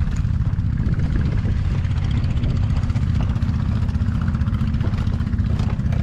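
A motor running steadily, a loud low rumble with a fast, even pulse.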